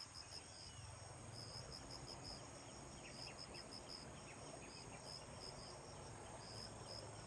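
Insects chirping, cricket-like: a faint, steady run of short, high chirps repeating several times a second, over a low hiss.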